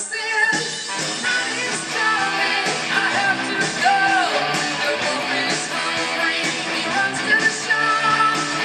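Rock music with a singing voice and electric guitar.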